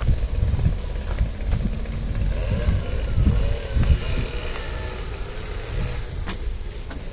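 Wind buffeting the microphone: a gusty low rumble that swells and eases unevenly.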